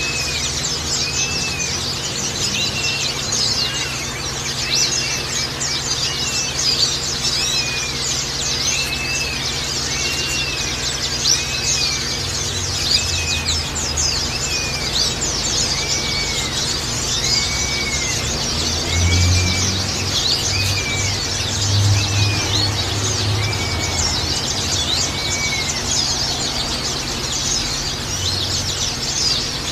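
A flock of white-eyes (pleci) chirping and twittering continuously, many short high calls overlapping. A lower, arched call repeats about once a second and stops near the end.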